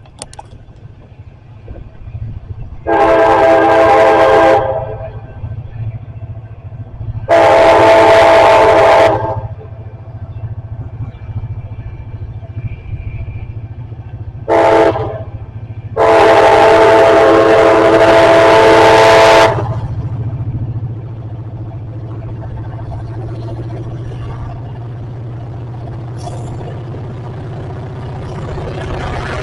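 Train air horn sounding four blasts of a multi-note chord, long, long, short, long: the grade-crossing signal. A steady low rumble of the passing train runs underneath.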